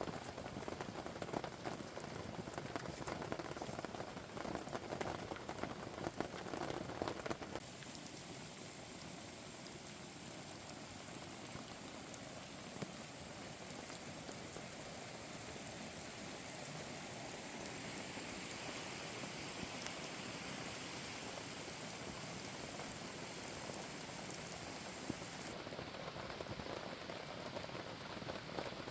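Rain falling steadily. The sound changes abruptly about seven seconds in, from a busier, louder patter to a smoother, even hiss.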